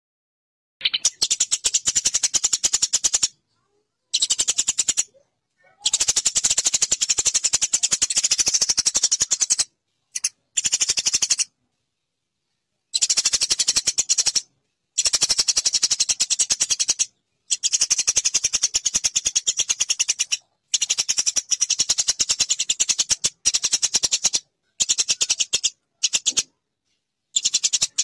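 Eurasian tree sparrow giving a fast, dense chirping chatter in bursts of one to three seconds, each starting and stopping abruptly with silent gaps between, as in a spliced bird-call recording.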